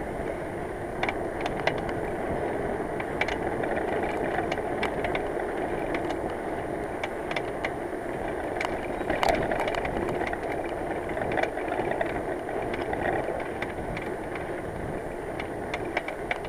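Bicycle riding along a road: a steady rush of tyres and wind with many irregular clicks and rattles. The clicking is the ailing rear hub, whose grease had turned to black sludge; the rider fears it may seize.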